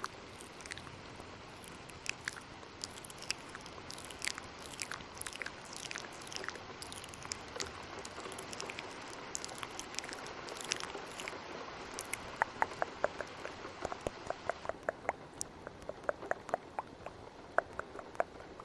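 Close-miked ASMR mouth sounds: wet clicks and smacks layered over a steady rain hiss. About two-thirds of the way in they turn into a quick run of crisp clicks, about three to four a second.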